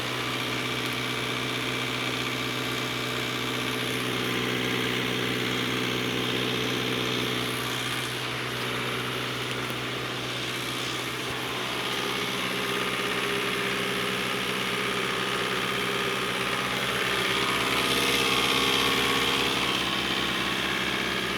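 An engine or motor running steadily at constant speed, a continuous hum with several fixed tones, a little louder about 18 seconds in.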